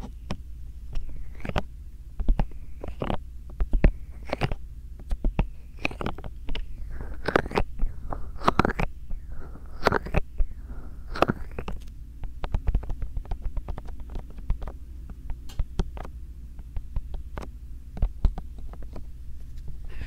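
Bare hands massaging a binaural microphone: an irregular series of soft rubbing strokes and taps against its ears, over a steady low hum.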